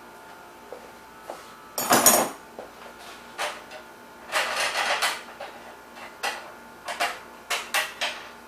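Small metal bicycle hub parts and tools clinking and rattling as the hub is taken apart. There is a loud clatter about two seconds in, a longer rattle around the middle, then a run of sharp clicks near the end.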